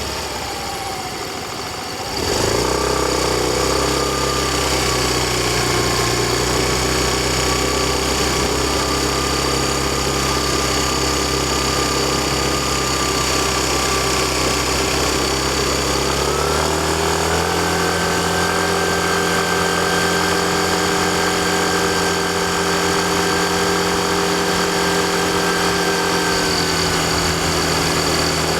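Yamaha Fazzio scooter's 125 cc single-cylinder engine running under way. The engine gets louder about two seconds in as the throttle opens, holds a steady note, then climbs to a higher steady pitch a little past halfway, with a thin high whine running over it.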